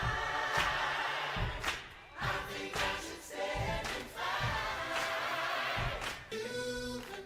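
Gospel-style choir singing over instrumental backing, settling into quieter held chords near the end.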